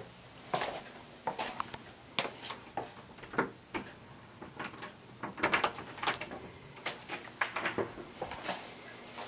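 Scattered light knocks and clicks of someone moving about a small room, with no steady sound beneath them.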